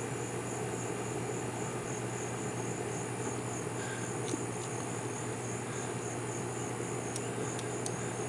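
Insects chirping in a steady, evenly pulsing high trill, with a few faint light clicks near the end.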